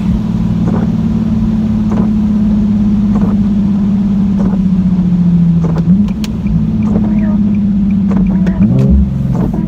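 Nissan 370Z's 3.7-litre V6 with a muffler delete, pulling under hard acceleration, heard from inside the cabin. The loud engine note holds steady and breaks briefly about six seconds and again about nine seconds in, as at gear changes.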